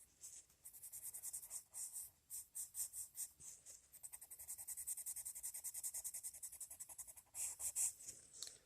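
Colored pencil shading back and forth on paper in quick, light strokes, a soft rapid scratching. It pauses briefly about four seconds in.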